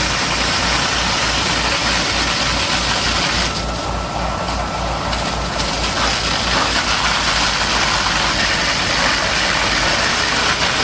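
A heavy engine running steadily with a low, even throb, under a dense hiss of water spray that drops out for about two seconds around four seconds in.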